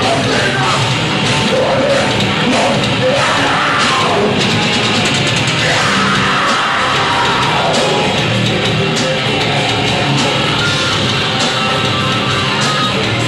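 Heavy metal band playing live and loud, with heavy guitars, and shouted vocals over the first half.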